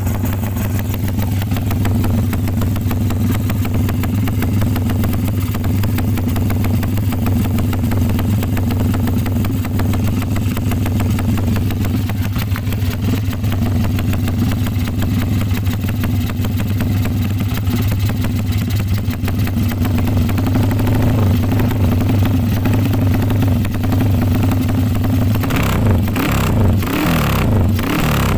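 Engine idling steadily through a BMS aftermarket exhaust, sounded for an exhaust-note check, with a few quick throttle blips near the end.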